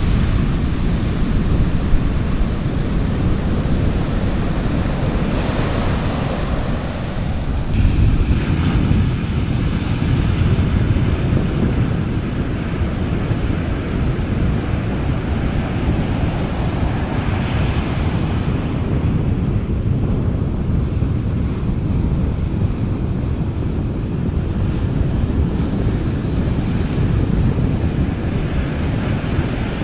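Sea waves breaking and washing on a beach in a steady wash of surf, with a stronger wave surging about eight seconds in. Low wind rumble on the microphone runs under it.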